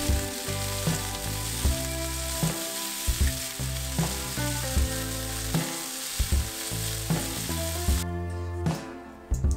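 Chicken pieces sizzling in a hot iron frying pan as they are turned over with long chopsticks; the sizzle stops about eight seconds in. Background music with a steady beat plays over it.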